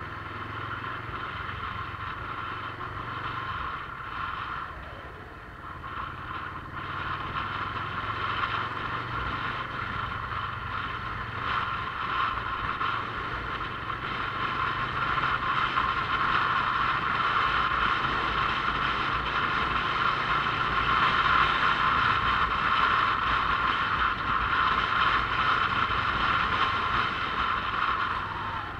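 Motorcycle on the move: the engine runs with a low steady tone under a loud hiss of wind and road noise, getting louder about halfway through.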